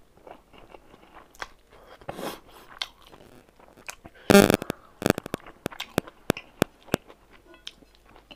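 Close-up eating sounds of a mouthful of rice and smoked pork being chewed, wet and crunchy, with a louder burst about halfway through followed by a run of sharp clicks.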